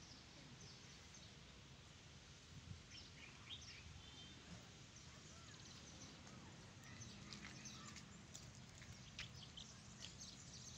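Faint birdsong: scattered short, high chirps and twitters from small birds in the trees, over a quiet low background hum.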